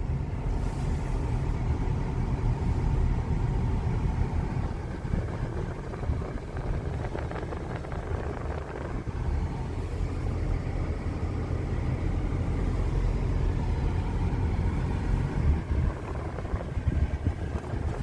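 Car running and moving, heard from inside the cabin: a steady low rumble of engine and road noise.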